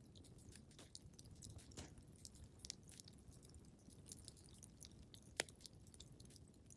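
Wood fire crackling in a fireplace: many small, irregular pops and snaps over a low steady rumble, with one sharper pop about five and a half seconds in.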